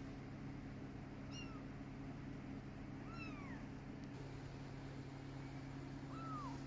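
Kitten meowing three times, high-pitched calls that fall in pitch, the middle one the longest, over a steady low hum.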